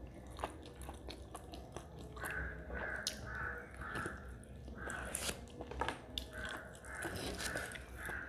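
Close-miked mouth and hand eating sounds: a woman chewing mouthfuls of rice and mutton curry eaten by hand, with wet smacks and small clicks. Behind it, two runs of short repeated chirps come about two a second.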